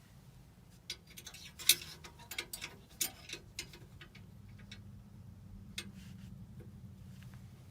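Scattered small clicks and taps as a replacement furnace flame sensor and its screw are handled and fitted, most of them in the first half, over a steady low hum.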